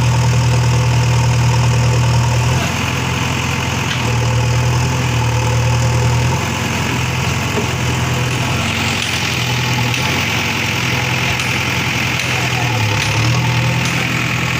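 Diesel engine of a JCB backhoe loader running, its low note growing louder and easing off several times as the load on it changes while it pushes a fishing boat.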